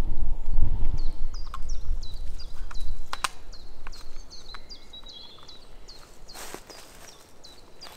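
A songbird repeating short, high calls about three times a second. Under it, a low rumbling noise on the microphone stops about three seconds in, and there is one brief burst of noise near the end.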